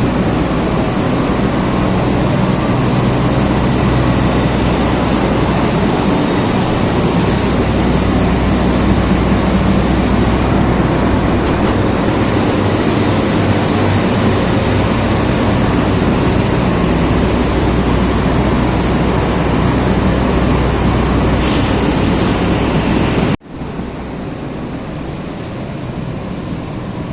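Air-conditioner outdoor units running: a loud, steady rush of condenser-fan air with a low compressor hum underneath. About 23 seconds in, the sound drops abruptly to a quieter, similar steady rush.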